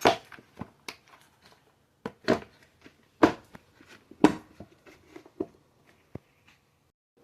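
Plastic parts of a Bissell PowerForce upright vacuum cleaner clicking and knocking as they are handled and fitted back on, about seven separate sharp knocks.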